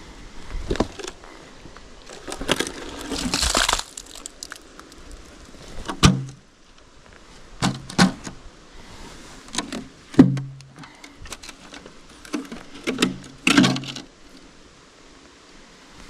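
Irregular knocks and thuds, several with a short low ring, with a scraping noise lasting about a second near the start and another near the end.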